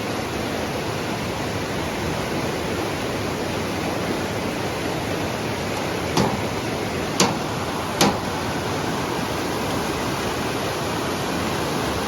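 River water rushing steadily, with three short knocks about a second apart just past the middle.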